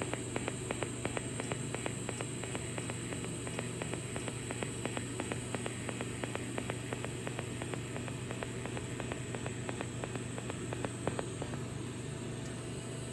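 TIG welding arc, held steady while a joint is filled in with filler rod: a constant electrical hiss and hum with a quick regular ticking, about five ticks a second, that thins out after the middle.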